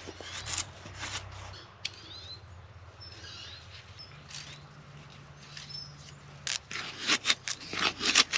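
Dried flax stalk kindling crackling and snapping as a fire catches: a few sharp cracks at first, then a dense run of loud pops in the last two seconds.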